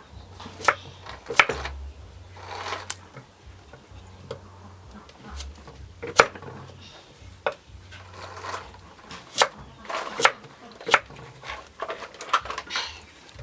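Kitchen prep: a dozen or so sharp knocks, unevenly spaced, of a knife or utensils on a wooden cutting board and dishes being handled, with softer scraping between them.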